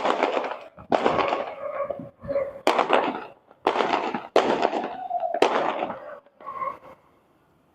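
Fireworks shells bursting overhead, about six loud bangs in quick succession, each trailing off before the next. They stop about a second before the end.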